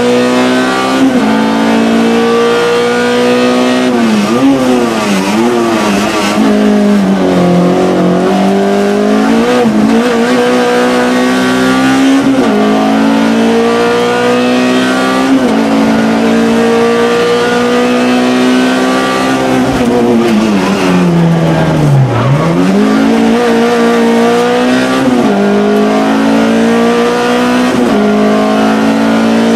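Peugeot 106 rally car's engine heard from inside the cabin, held at high revs under hard driving with repeated shifts up and down. The revs fall away sharply a few seconds in and again about two-thirds of the way through, then climb back up.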